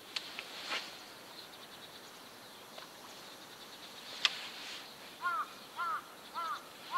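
A bird calling in a quick series of short, arched notes, about one and a half a second, starting about five seconds in. A few sharp clicks come earlier, the loudest a little after four seconds.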